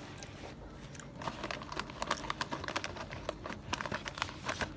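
A sandwich wrapper being handled, crinkling in a quick, irregular run of sharp crackles that starts about a second in.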